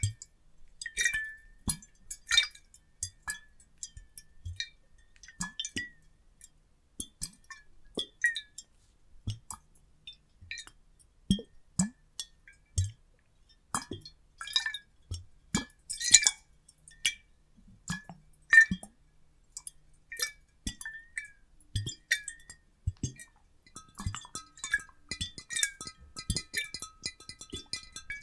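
Water sloshing inside glass bottles, heard as scattered irregular plinks and gurgling plops with glassy clinks. Near the end, a faint steady chime-like ringing joins in.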